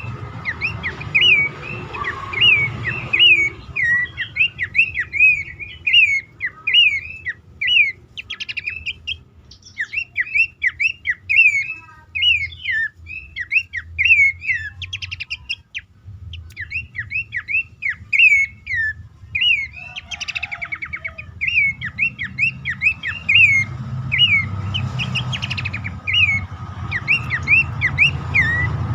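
Pelanduk semak (Horsfield's babbler) calling: rapid runs of short, downward-slurred whistled notes, broken into phrases by brief pauses, over a steady low hum.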